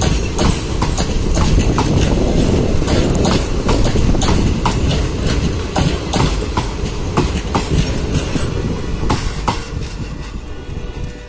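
Indian Railways ICF passenger coaches rolling past, their wheels clicking over rail joints in a steady clickety-clack over a low rumble. The sound fades near the end as the last coach goes by.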